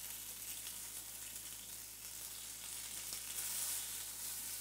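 Skewered prawns frying in hot olive oil in a frying pan: a steady, fairly quiet sizzle, a little louder near the end.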